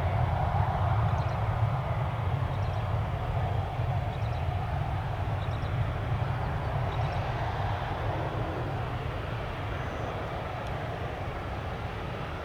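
Jet airliner engines as a steady noisy rumble that slowly fades as the aircraft moves away.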